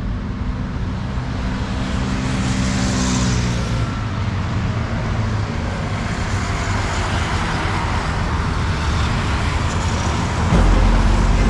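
Road traffic on a busy city avenue: cars passing with a steady hiss of tyres and engines, one vehicle going by a few seconds in. Near the end, background music comes back in.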